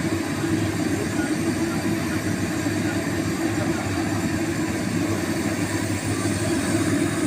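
Excavator's diesel engine running steadily under even load, a constant low mechanical rumble with no distinct knocks.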